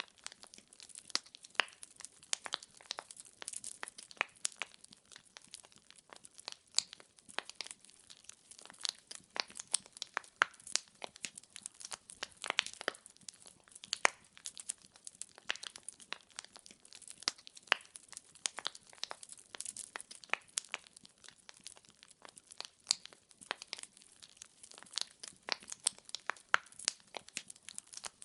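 Wood fire in a fireplace crackling: many sharp, irregular pops and snaps of burning logs over a faint hiss.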